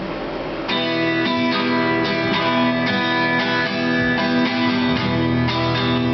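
Acoustic guitar strumming chords in a steady rhythm, starting just under a second in: the instrumental intro of a song.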